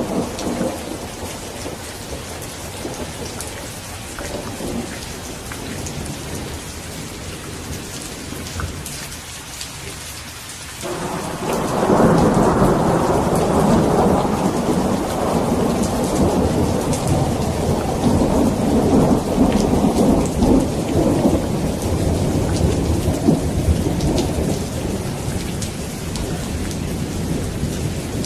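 Steady rainfall with a thunderstorm. About eleven seconds in, a loud peal of thunder breaks in abruptly and rumbles on to the end.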